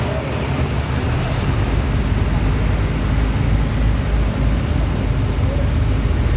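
An engine running steadily with a low, throbbing rumble under a wash of wind noise on the microphone.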